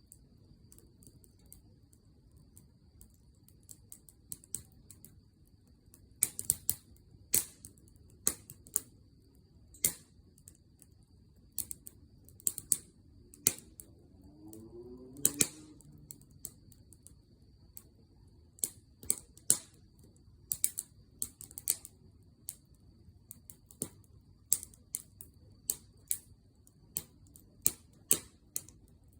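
Firewood burning in a campfire, crackling with irregular sharp pops and snaps over a low steady rumble of flame.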